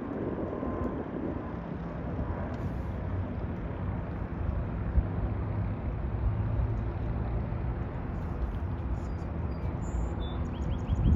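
An engine running steadily with a low hum, mixed with outdoor noise.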